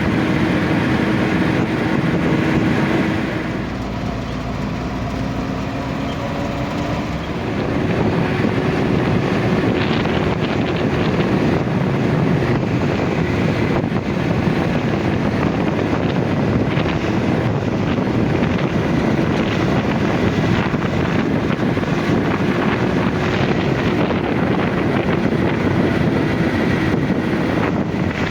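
A motor vehicle's engine running steadily under heavy wind and road noise, easing off for a few seconds about four seconds in.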